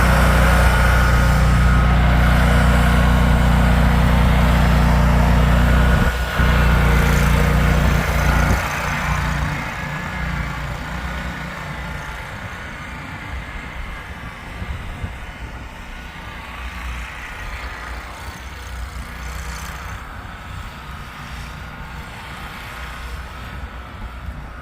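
Vehicle engine running with a steady deep hum. About eight seconds in the hum drops away, leaving a quieter rough rumble.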